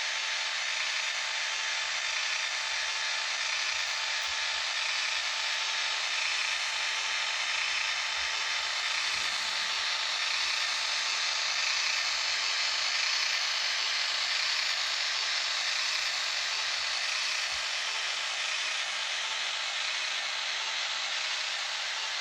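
N-scale model train, a Fleischmann Taigatrommel diesel locomotive pulling tank wagons, running steadily: an even whirring hiss of the small motor and wheels on the track.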